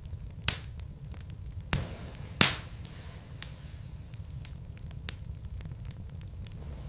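Wood logs burning in a fireplace: irregular crackling with a few sharp pops, the loudest about two and a half seconds in, over a low steady rumble.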